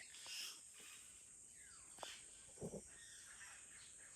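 Faint rainforest ambience of birds and insects: a steady high insect drone, a descending whistled bird call about a second and a half in, and a couple of short low calls near the middle.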